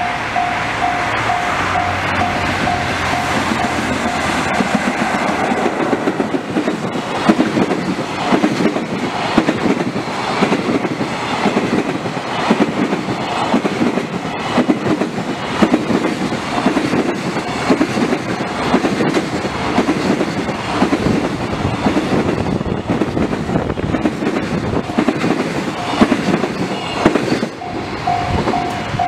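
Electric-hauled container freight train passing at speed. After the locomotive goes by, a long string of container wagons follows with a steady, rhythmic clickety-clack of wheels over rail joints.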